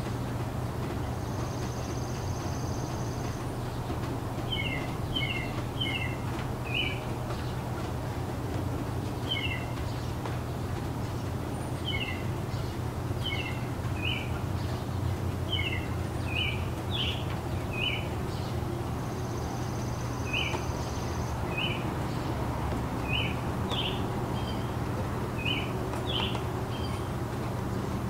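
A bird calling with short, high chirps, repeated every half second to a second or so from a few seconds in, over a steady low background hum. Twice a faint, longer high note lasts a couple of seconds.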